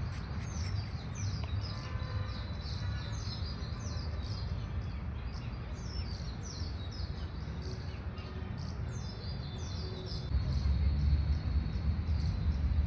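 Many short, high-pitched falling chirps repeated over and over from small birds or insects, over a steady low rumble that gets louder about ten seconds in.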